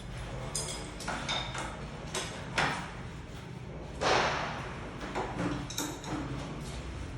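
A series of irregular knocks and clinks, like tools and hard parts being handled and set down, over a low steady hum. The loudest, about four seconds in, trails off in a brief scraping rustle.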